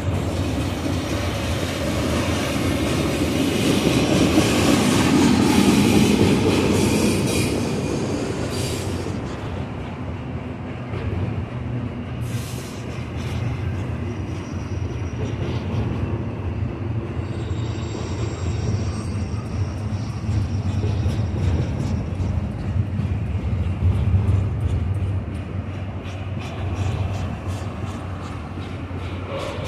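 Union Pacific double-stack container train rolling past: a continuous rumble of steel wheels on rail, loudest a few seconds in, with occasional clicks. About two-thirds of the way through, a thin high wheel squeal rises over the rumble.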